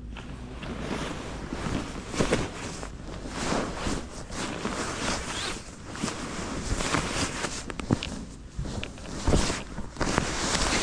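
Wind noise buffeting the microphone, with scattered knocks and rustling.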